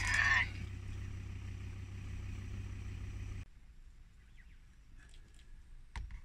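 Vehicle engine idling with a steady low hum that stops abruptly about three and a half seconds in. A brief pitched call with a wavering pitch sounds right at the start, and a single sharp click comes near the end.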